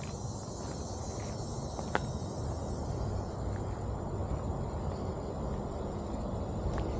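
Insects buzzing in a steady, high-pitched chorus that thins about halfway through to a single thin high tone, over a constant low rumble, with one footstep-like click about two seconds in.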